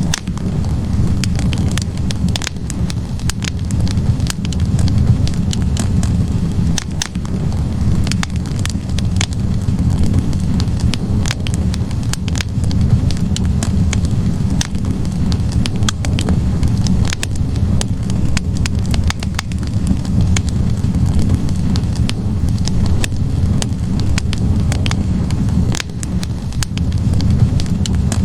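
Wood logs burning in a fireplace: the fire crackles with frequent, irregular sharp pops over a steady low rush of flame.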